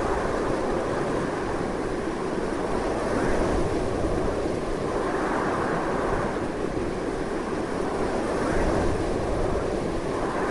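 Strong, continuous wind blowing in a steady rush that swells gently a few times.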